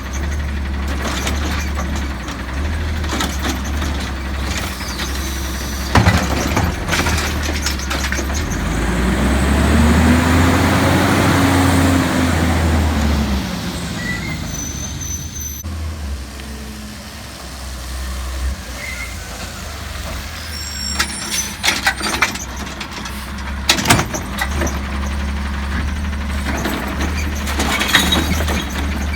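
Garbage truck's diesel engine running, revving up and back down over a few seconds as it powers the hydraulics. A few sharp knocks come near the start and in the last third.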